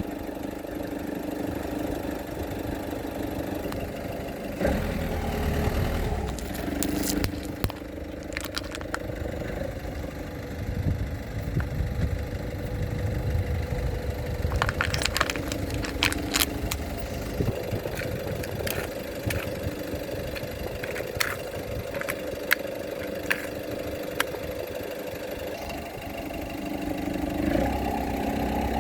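Car engine running at low speed, with scattered sharp cracks and crunches as the tyres roll over and crush objects, in several clusters.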